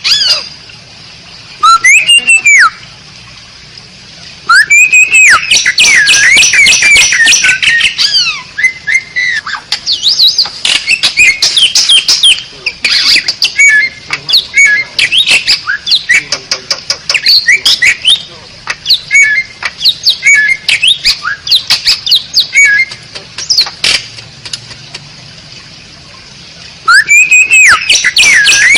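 Asian pied starling (jalak suren) singing loudly: long runs of fast chattering and whistled notes mixed with harsh squawks, broken by two short pauses.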